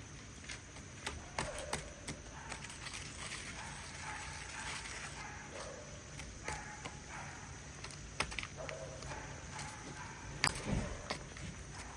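Dry baking soda and citric acid powder being stirred and crushed by hand, with light scraping and scattered clicks and knocks, the loudest knock near the end.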